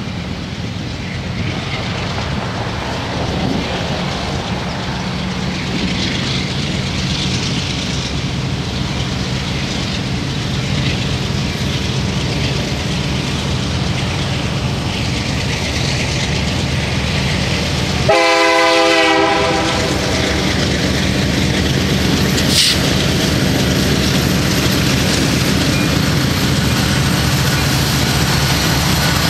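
Approaching diesel freight train led by CN's EMD SD75I locomotive 5629: a steady engine rumble grows louder as it nears. About eighteen seconds in, its air horn sounds one short blast.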